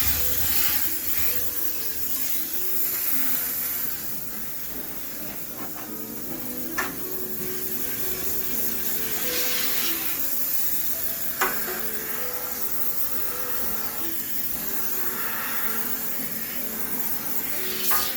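High-pressure steam cleaner spraying in hissing spurts that come and go, over background music, with three sharp clicks spread through it.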